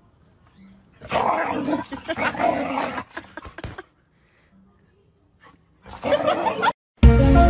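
Dogs barking and growling while play-fighting, in a long burst about a second in and a shorter one near the end. Right at the end, a sudden loud thump as music starts.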